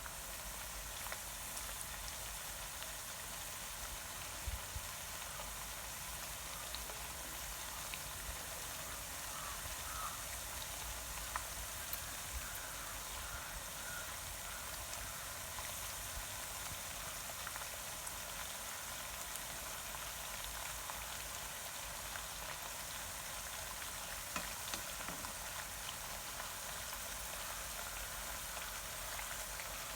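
Pieces of porotta frying in hot oil on a medium flame: a steady sizzle with a few small pops scattered through it.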